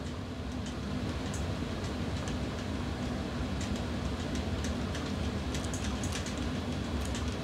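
A steady low hum with a faint held tone and an even level, with a few faint ticks over it.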